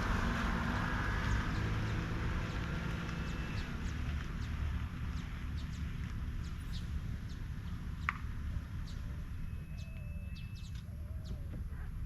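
Birds calling over a low steady rumble that eases off. There are faint high chirps, one sharp chirp about two-thirds in, and short falling calls near the end that repeat like a hen clucking.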